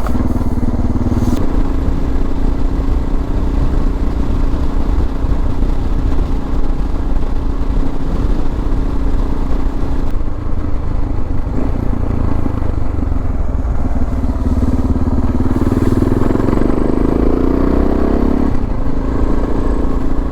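Suzuki DR650 single-cylinder engine running at a steady cruise under riding noise. Near the end the engine note climbs for a few seconds, then drops back abruptly.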